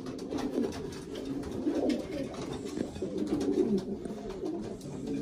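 A loft full of racing pigeons cooing together, many overlapping low, wavering coos that never stop. It is the courting coo of birds being paired for breeding.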